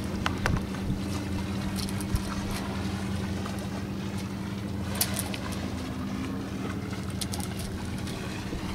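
Sailboat under way: wind on the microphone over a steady low hum, with a few sharp clicks and knocks scattered through.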